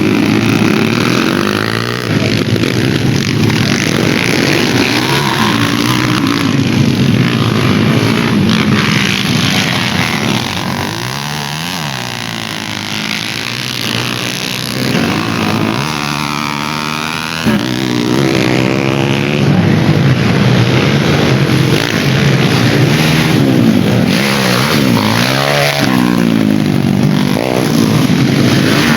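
Dirt bike engines revving hard and easing off again and again, their pitch rising and falling as the bikes race past; the sound drops a little for a few seconds around the middle.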